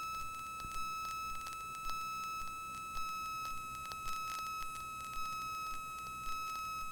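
Steady high-pitched electrical whine on a light aircraft's intercom audio, with a faint tick about once a second. This is typical of alternator and strobe-light interference on the audio line.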